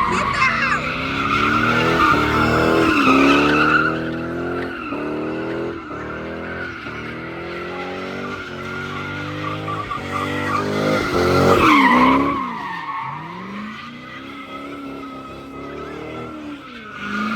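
A car doing a burnout or donuts: tyres squealing continuously while the engine revs up again and again in quick climbs. About twelve seconds in the squeal dies away and the engine falls back, then starts climbing again near the end.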